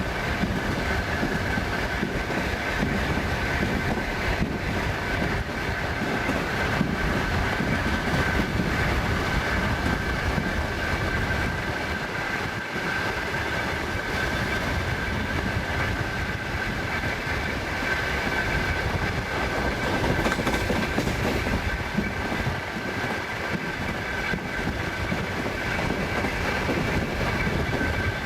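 Passenger train wheels running on the rails, heard from inside the carriage: a steady rumble with the clickety-clack of the wheels over rail joints and a steady high-pitched whine above it.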